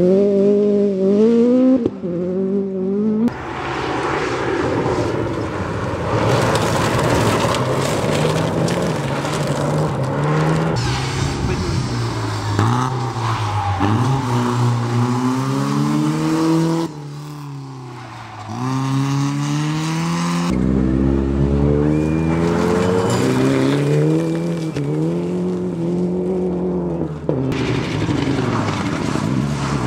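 A series of rally cars passing at speed on a gravel-edged stage, engines revving hard and dropping back through gear changes, with gravel spray and tyre noise as they slide through the corner.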